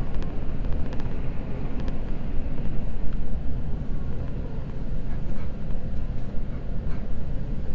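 Seibu Red Arrow limited express electric train running, heard from inside the passenger car: a steady low rumble with a few faint clicks.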